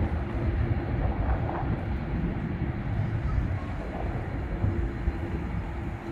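Low, steady rumble of an airliner's jet engines, with a faint steady hum running through it.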